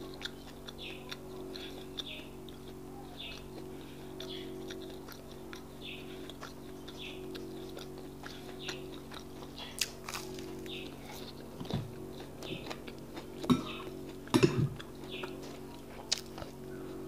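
Close-miked chewing of akara (fried bean cakes), soft rhythmic mouth sounds about once a second over a steady low hum. In the last few seconds come several sharp clicks as a metal spoon dips into a glass bowl of custard.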